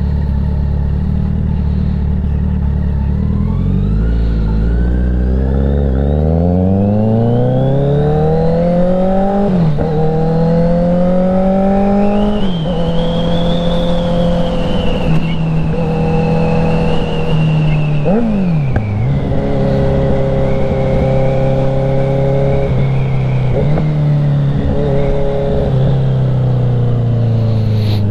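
Kawasaki Z900 inline-four engine pulling away from low revs about three seconds in, its pitch climbing through the gears with short drops at each upshift. It then settles into a steady cruise, with a quick drop and rise in revs near the middle.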